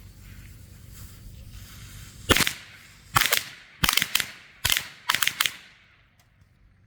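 A pack of Jesse James firecrackers going off: about a dozen sharp bangs in irregular quick clusters over roughly three seconds, starting a couple of seconds in.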